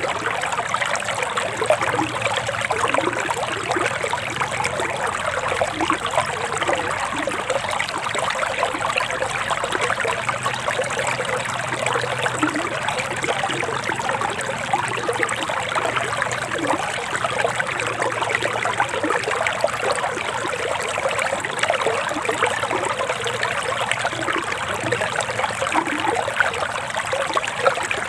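A forest stream flowing steadily, with a continuous babbling trickle.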